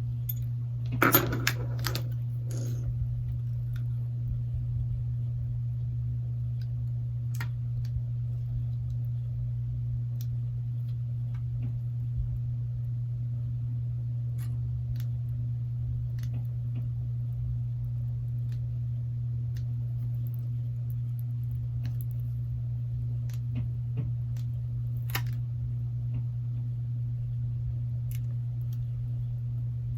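Steady low electrical hum, with scattered small clicks and taps from handling smartphone parts as the battery connector is plugged in.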